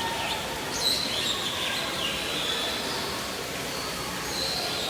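Birds chirping in high, short calls, one sharper call about a second in, over a steady background hiss of ambient noise.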